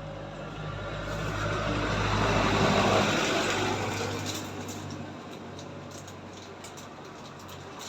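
A road vehicle passing, its engine and road noise swelling to a peak about three seconds in and then fading away.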